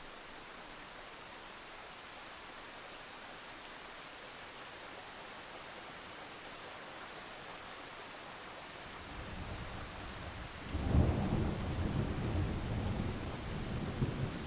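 Steady rainfall hissing, then thunder: a low rumble starts about nine seconds in and swells into a loud roll at about eleven seconds that keeps rumbling to the end, with the rain going on underneath.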